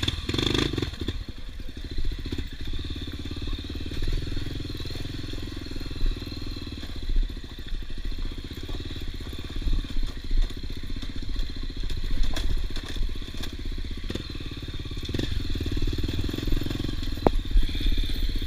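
Honda XR250 Tornado trail bike's single-cylinder four-stroke engine running at a steady pace while riding off-road, with a few sharp knocks and clatters along the way.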